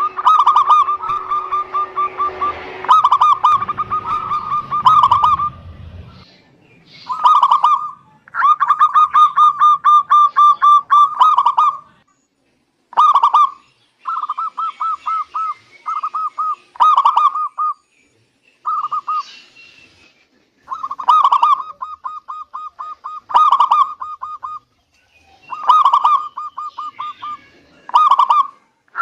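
Zebra doves (perkutut) singing: repeated phrases of quick staccato cooing notes, each phrase lasting about a second or so, separated by short pauses.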